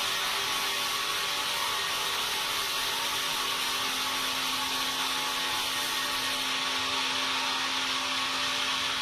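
Sawmill machinery running steadily: a constant, unbroken noise with a faint steady hum under it.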